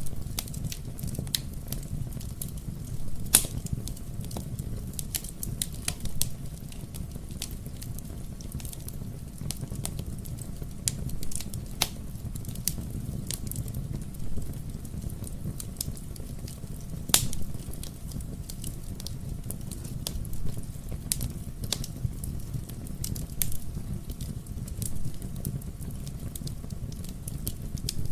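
Wood fire burning in a fireplace: a steady low rumble of flames with irregular sharp crackles and pops, a couple of them louder than the rest.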